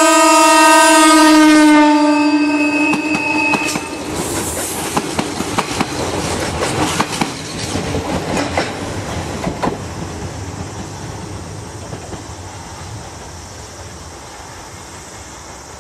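JR 115-series electric train sounding a long horn as it passes, the horn's pitch dropping slightly about two seconds in, then stopping near four seconds in. The wheels then clatter over the rail joints, fading as the train moves away.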